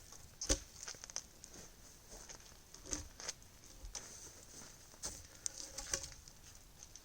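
A person moving about and handling wood: irregular crunches, rustles and a few sharper knocks, the loudest about half a second in.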